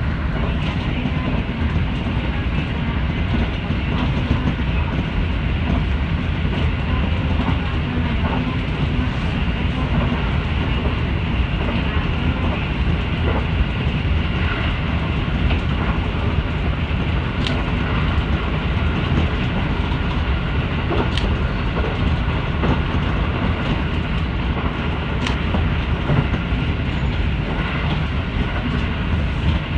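Local train running, heard from inside the carriage: a steady rumble of wheels on the rails, with a few sharp clicks over the second half.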